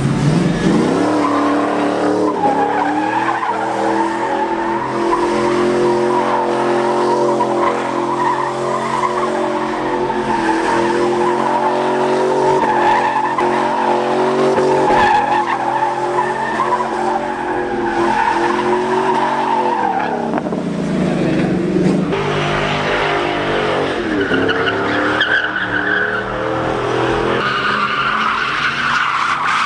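A truck engine held at high revs while its tyres squeal continuously, spinning in circles; near the end the revs drop and climb back twice.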